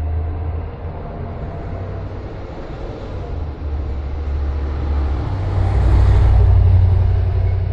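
Car on the move in city traffic: a steady low road rumble with tyre hiss, swelling louder about five seconds in with a rush of noise that peaks and fades near the end.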